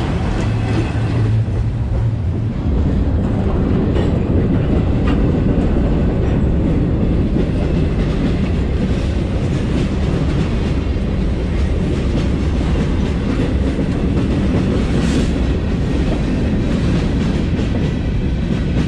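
Freight cars of a long mixed freight train rolling past close by: a steady, loud rumble of steel wheels on the rails, with occasional clicks as the wheels cross rail joints.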